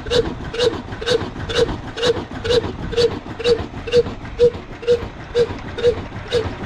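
Old slow-running single-cylinder oil diesel engine, Ruston type, running steadily with an even exhaust beat of about two firing pulses a second.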